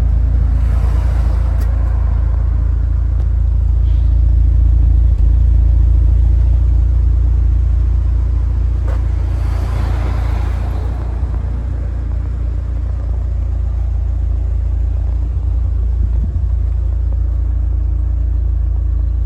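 Mitsubishi Lancer Evo's 2.0-litre turbocharged four-cylinder idling steadily with a deep, even rumble. Two broad swells of hiss rise and fade over it, one about a second in and one around ten seconds in.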